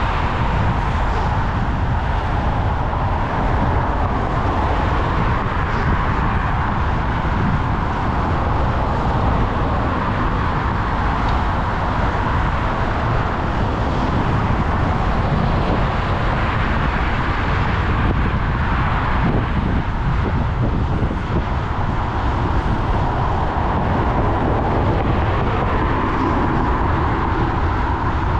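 Steady wind rush and rumble on an action camera's microphone during a bicycle ride, with road and traffic noise mixed in.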